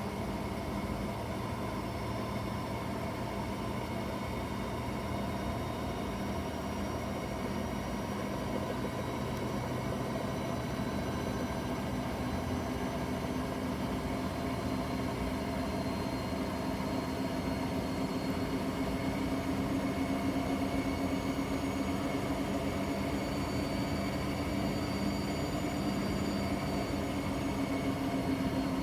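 Bosch washing machine spinning its drum at high speed, a steady motor hum and whine whose tones drift slowly in pitch and swell slightly about two-thirds of the way through.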